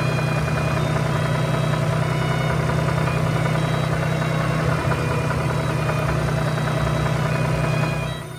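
A heavy vehicle's engine idling with a steady low hum, cutting off abruptly near the end.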